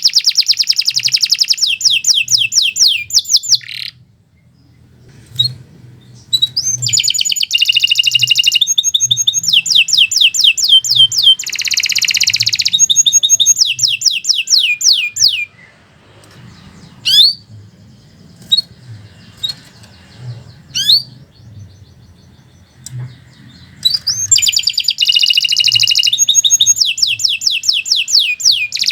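Domestic canary singing long phrases of rapid trilled notes, with a lull of several seconds in the middle broken by a few single chirps before the trilling resumes.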